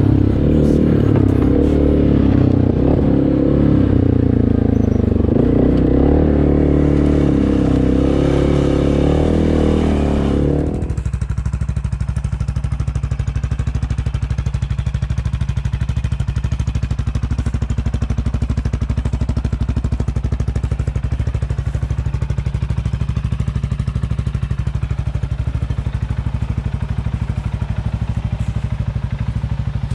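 CFMoto 625 ATV's single-cylinder engine running through an RJWC crossflow exhaust, its pitch shifting with the revs. About a third of the way in the sound changes abruptly to a steady, even idle.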